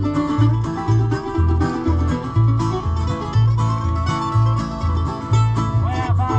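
Acoustic bluegrass jam: banjo and guitar picking an instrumental passage over an alternating bass line of about two notes a second.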